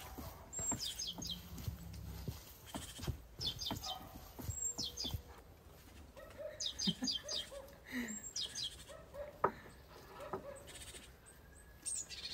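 A small bird singing: short runs of three to five quick, high chirps, repeated several times, some sliding down in pitch. Scattered clicks and knocks sound between them.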